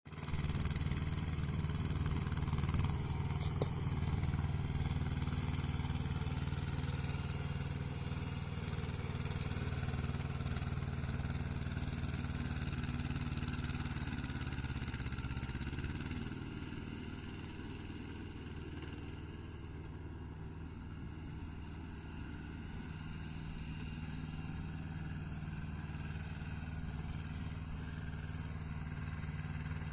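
Small tractor engine running steadily, easing slightly to a lower, quieter pace about halfway through.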